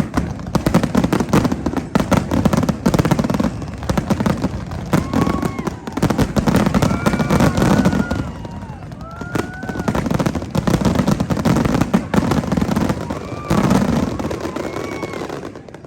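Fireworks display going off: a dense run of rapid crackling bangs and booms with a low rumble that swells and eases several times, and a few short rising-and-falling whistle-like tones among them. It stops abruptly at the end.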